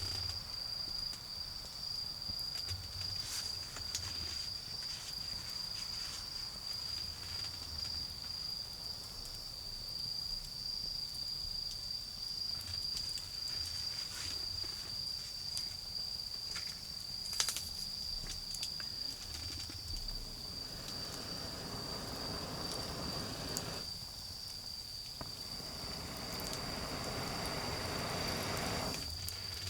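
Autumn insects, crickets, singing a steady high trill, with sparse crackles and pops from a low wood fire. In the last third a broad rushing noise swells up, breaks off briefly, returns and then cuts off.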